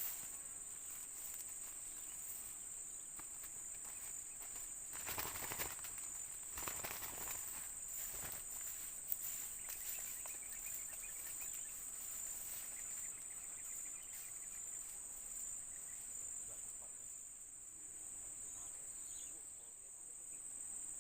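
Insects chirring steadily in one high, even band, with a few brief rustling noises around five to eight seconds in and a single sharp tick about nine seconds in.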